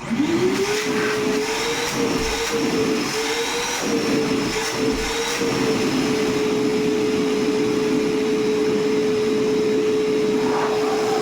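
Koblenz 5 HP, 9-gallon wet/dry shop vacuum switched on: the motor spins up within about a second to a steady whine. Its pitch wavers a little over the first few seconds, then holds steady.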